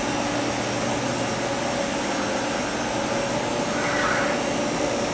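Steady machinery hum and hiss with a faint constant low tone, and a brief higher-pitched sound about four seconds in.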